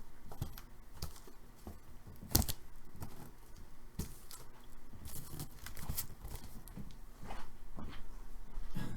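Cardboard card boxes and packaging being handled and torn open: scattered taps, scrapes and tearing, with one sharp knock about two and a half seconds in.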